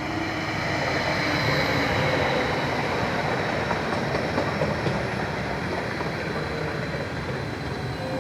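A train running along the rails, a steady rumbling noise that grows louder about a second in.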